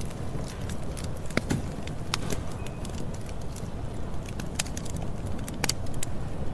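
Campfire burning: a steady low rumble with frequent sharp crackles and pops at irregular intervals.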